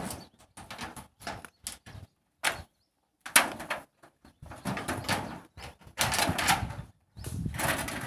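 Irregular knocks and clatters, then longer scraping stretches in the second half, from hands-on repair work with nails.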